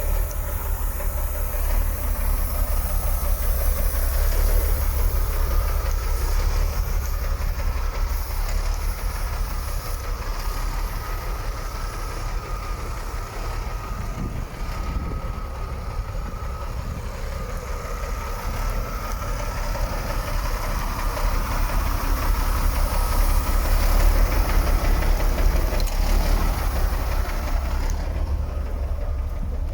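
MAN 26.362 F2000 truck's diesel engine idling steadily, with a low, even rumble.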